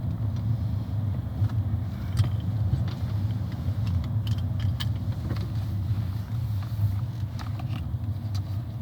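Steady low road rumble inside a moving car, with a few light clicks and rattles.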